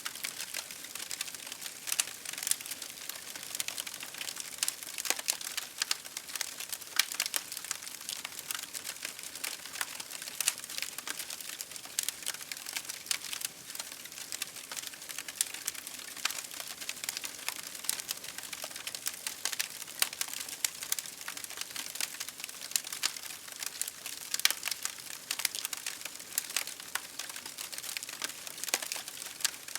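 Campfire crackling: wood burning with a steady hiss and many irregular sharp pops and snaps.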